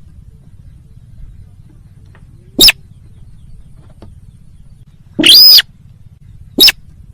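Bird-lure recording of sintar calls played loud: a short high call about two and a half seconds in, then a longer call around five seconds and another short one near the end, over a low steady hum.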